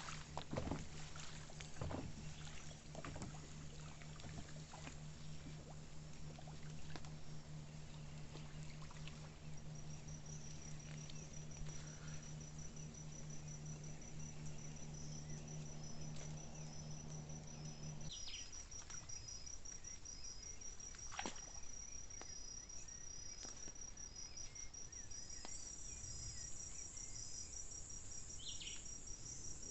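Crickets trilling steadily from about a third of the way in, with a second insect chirping in short, evenly spaced pulses. Underneath, a steady low hum runs until about two-thirds of the way through and then stops abruptly. A few scattered knocks, mostly near the start.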